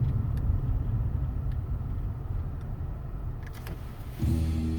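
Low, steady road rumble of a vehicle driving, slowly fading. About four seconds in, music starts.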